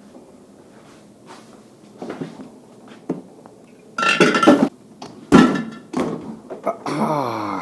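Samsung French-door fridge doors being worked, with a string of clinking, clattering knocks, the loudest in the middle, and a creak that falls in pitch near the end.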